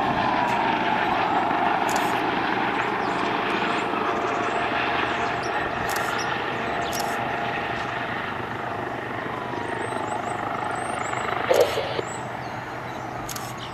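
Twin-engine Eurocopter helicopter coming in to land on one engine, its other engine shut down; the rotor and engine noise is steady and slowly fades. A brief louder noise near the end.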